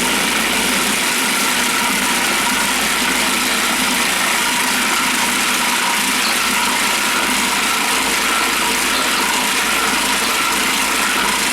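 Cuisinart food processor running steadily, its motor and blade whirring at a constant pitch as it purées chicken forcemeat into a mousse.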